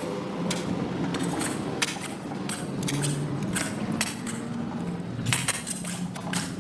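Repeated short clicks and clinks, irregular, over a low steady hum.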